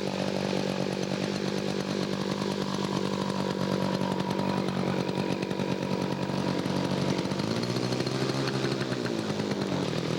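Radio-control model airplane engine running steadily at a low, even speed, its pitch rising and falling once about eight seconds in.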